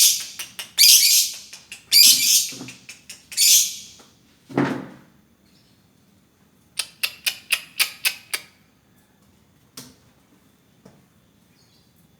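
Lovebird calling: three loud, harsh, high screeches in the first four seconds, then a quick run of about nine short sharp chirps about seven seconds in, followed by a few scattered clicks. A lower, fuller sound comes at about four and a half seconds.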